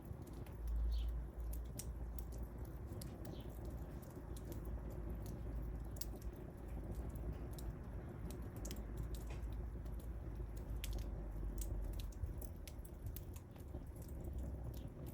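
Wood fire crackling, with many irregular sharp pops and snaps over a steady low rumble, which swells briefly about a second in.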